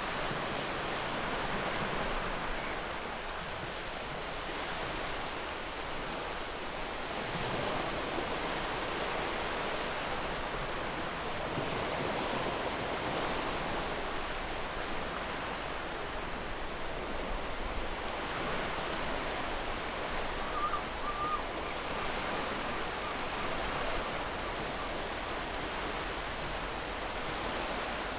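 Steady rushing wash of surf. About two-thirds of the way through comes one short, faint wavering call.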